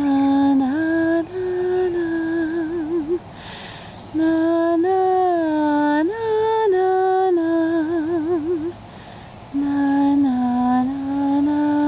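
A woman humming a slow Cape Verdean lullaby in long held notes that waver at the ends of phrases, in three phrases with short pauses for breath between them.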